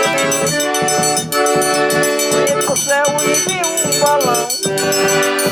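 Forró pé-de-serra played live: a sustained accordion-like melody over a steady percussion beat with shaker or rattle strokes.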